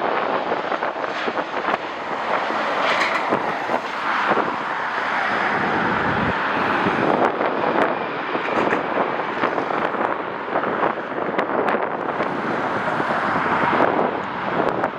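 Jet airliner engine noise mixed with strong wind buffeting the microphone, swelling and easing in gusts.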